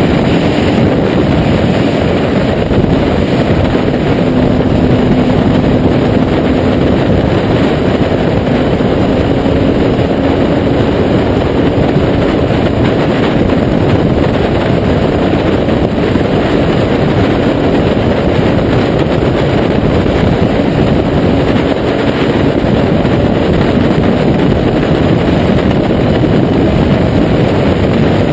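Kawasaki Z800's inline-four engine through a Taylor Made Firetong aftermarket exhaust, running at fairly steady revs while riding. It sounds as a loud, continuous rush mixed with wind noise.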